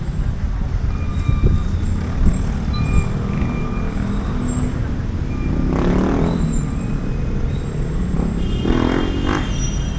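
Street traffic: a steady low rumble of passing vehicles, with short pitched sounds about six and nine seconds in.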